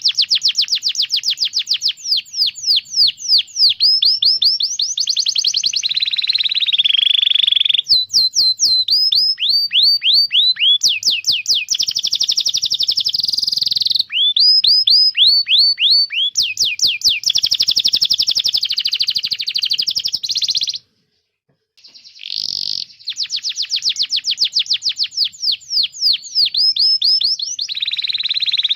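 Domestic canary singing: fast runs of sharp, falling 'cuit' chirps, several a second, alternating with dense buzzing rolls. The song breaks off for about a second roughly three quarters of the way through, then resumes.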